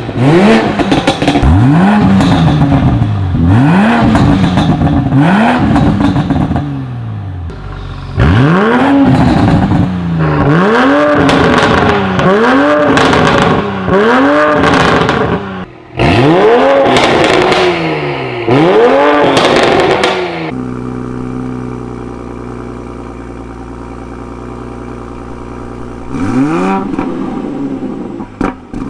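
Toyota GR Supra A90 engine being blipped repeatedly while stationary, each rev climbing and dropping back quickly, about one a second, in runs of several. It settles into a steady idle about two-thirds of the way through, then revs again near the end.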